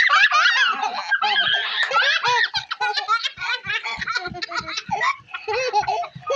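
A young child laughing in quick, repeated bursts of high-pitched giggles.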